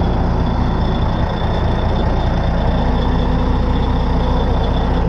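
Caterpillar D8N bulldozer's diesel engine running steadily, with a steady high whine over the engine note.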